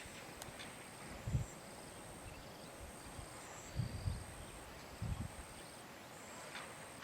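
Three soft, low thumps, a little over a second apart, over quiet outdoor background with a faint high-pitched tone that comes and goes.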